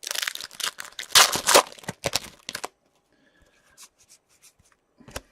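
A hockey card pack's wrapper being torn open and crinkled, a loud ripping and rustling for about two and a half seconds. A few faint light taps follow.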